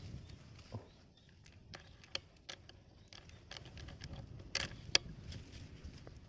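Scattered light clicks and ticks over a faint background, with one sharp, loud click about five seconds in.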